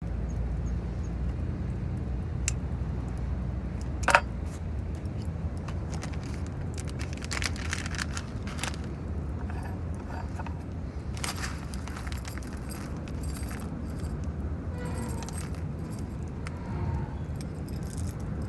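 Metal camping gear being handled: scattered clinks and rattles, with one sharp ringing metallic clink about four seconds in, over a steady low rumble.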